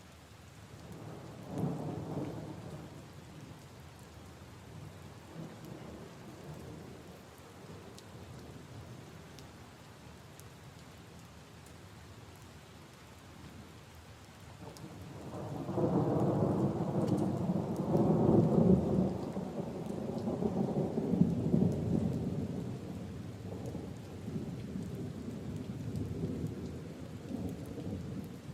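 Steady rain falling, with rolling thunder: a short rumble about two seconds in, then a longer, louder roll starting about halfway through that slowly fades away.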